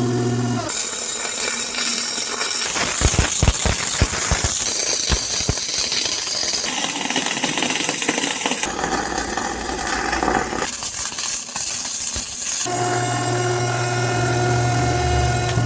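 Arc welding on a steel frame, a crackling hiss, in short clips that change abruptly. A stretch of rapid sharp knocks comes a few seconds in, and a steady electrical hum is heard at the start and again near the end.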